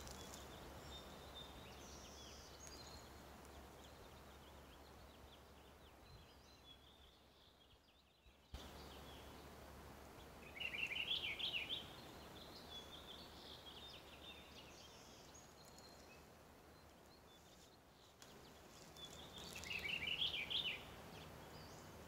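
A songbird singing a short, fast trilled phrase twice, about nine seconds apart, with fainter high chirps from small birds in between.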